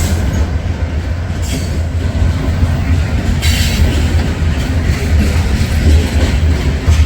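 Freight train rolling by: a steady low rumble with two brief hissing bursts, about one and a half and three and a half seconds in.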